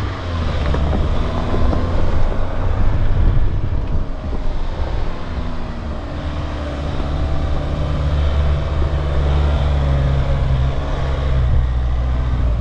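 Mahindra Thar's engine running steadily as the 4x4 drives along a rough dirt track, heard from on board the vehicle.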